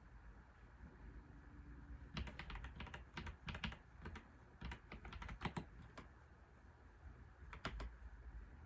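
Typing on a computer keyboard: a quick run of key clicks from about two to six seconds in, then a couple more keystrokes near the end, over a low steady hum.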